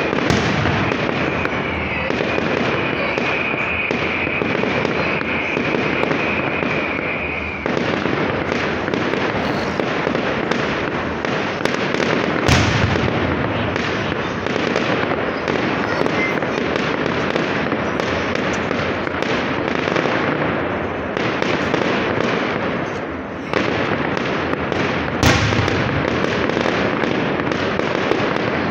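Fireworks display: a dense, continuous crackle of many small bursts, with two louder single bangs, about 12 seconds in and about 25 seconds in. A steady high whistle runs over the crackle for roughly the first seven seconds, then stops abruptly.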